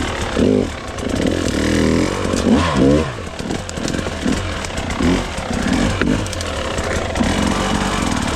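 Dirt bike engine revving in short throttle bursts, its pitch rising and falling again and again while the bike is ridden over rough terrain.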